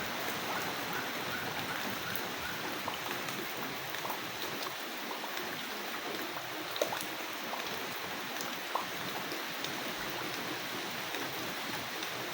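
Steady rain falling, a continuous hiss with scattered individual drops ticking close by.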